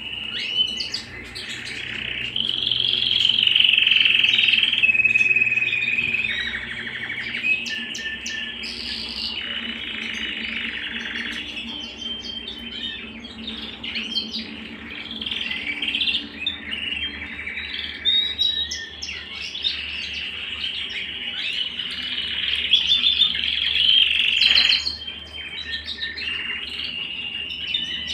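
Domestic canary singing a continuous song of rolling, trilled phrases, each held for a second or two before switching to the next.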